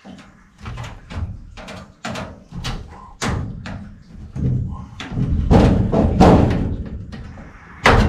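A series of knocks and thuds, about two a second, from the evaporator coil and its sheet-metal cabinet being banged and forced upward into place. They grow louder in the second half.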